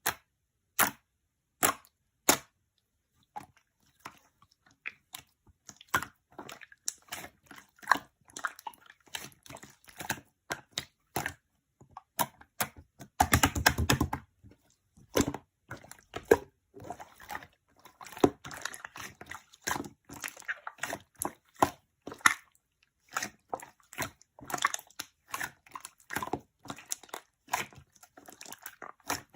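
A close, uneven series of sharp clicks and crunches, sparse at first, then coming thick and fast, with a dense crackling burst about halfway through.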